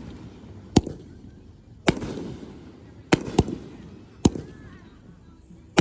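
Aerial fireworks shells bursting overhead: about half a dozen sharp bangs roughly a second apart, two of them close together near the middle. Each bang is followed by a low rumble echoing away.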